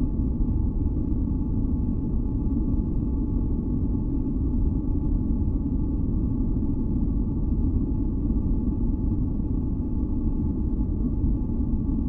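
Steady, deep noise for sleep masking, its weight in the low end like a soft even rumble, with a few faint steady tones sitting above it.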